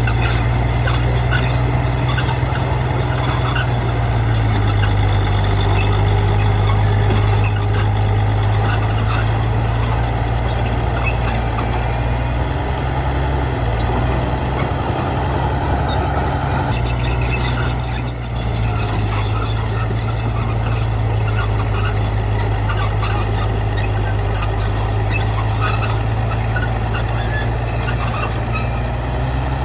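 Heavy diesel machinery engine running steadily, its note shifting slightly about four seconds in and again around fourteen to seventeen seconds, with scattered short high-pitched sounds over it.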